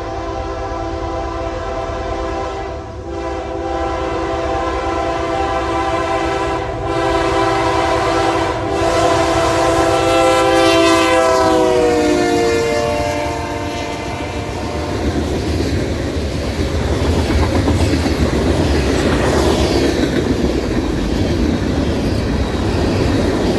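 Freight locomotive air horn blowing the grade-crossing signal: long, long, short, then a final long blast whose chord drops in pitch as the locomotive passes. The horn gives way to the steady rumble and wheel clatter of the freight cars rolling by.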